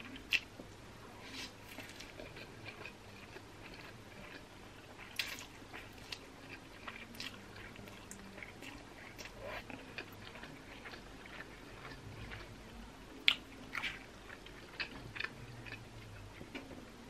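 Close-miked chewing of a mouthful of stir-fried yakisoba noodles, soft and wet and irregular, with a few sharp clicks scattered through.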